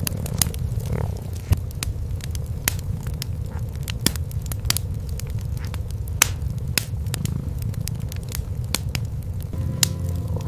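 Wood fire in a fireplace crackling, with sharp irregular pops, over the steady low purring of cats.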